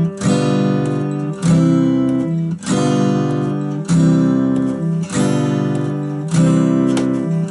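Acoustic guitar strummed slowly, changing back and forth between G7 and C chords with two strums on each chord. That makes about six strums, one every second or so, each left to ring until the next.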